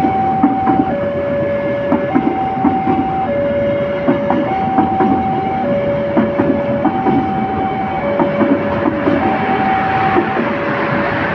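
A train rolling past, its wheels clacking irregularly over the rails. Over it an electronic warning alarm sounds, switching back and forth between a higher and a lower tone, each held a little over a second.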